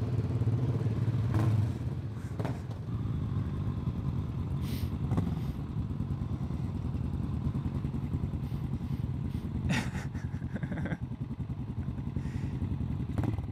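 Several motorcycle engines running with a steady low rumble, louder for the first second or two and then settling as the bikes sit idling at a standstill, with a few short knocks scattered through.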